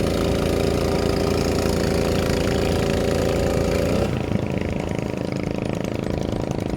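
Fishing boat's engine running steadily. About four seconds in, its pitch dips a little and the sound turns duller.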